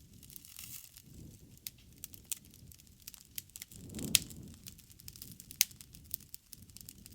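Wood bonfire crackling, with frequent sharp pops over a low rumble of flame. There is a louder pop and a swell of flame noise about four seconds in.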